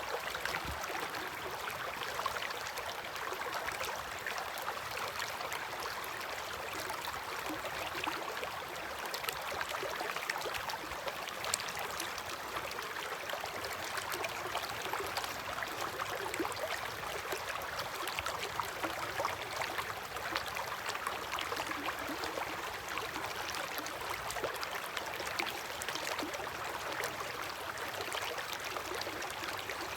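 River water flowing steadily, with many small splashes.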